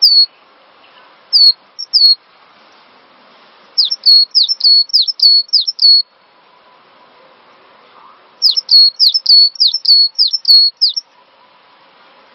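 Gelatik batu (cinereous tit) singing: loud, high, sharp notes, each dropping quickly and ending in a short held tone. A few come singly at first, then two rapid runs of about ten notes each follow, one near the middle and one toward the end.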